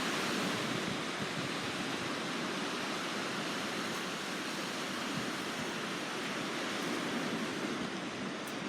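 Steady wash of sea surf on the shore.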